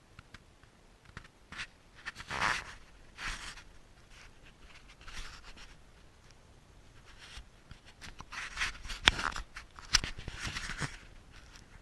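Irregular scrapes and rustles with a few sharp clicks, the sharpest and loudest near the end.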